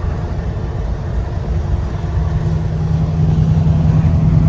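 Semi truck's diesel engine and road noise droning inside the cab while driving, with a steady engine hum growing stronger about two seconds in.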